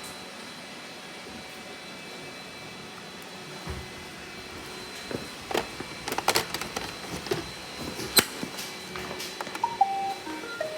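Robot vacuum running with a steady whir. A string of clicks and knocks comes in the middle, and a few short tones near the end.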